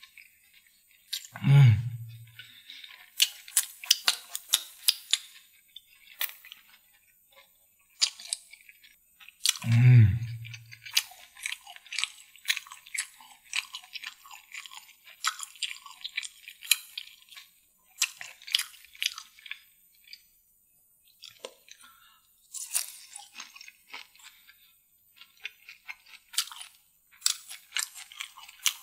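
Close-miked chewing of saucy deviled chicken and seafood: a steady run of short wet mouth clicks and smacks. Two loud low hums from the eater, each falling in pitch, come about one and a half and ten seconds in.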